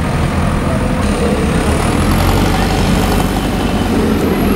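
Heavy vehicle engines running steadily, a constant low rumble with a faint high whine drifting up and down.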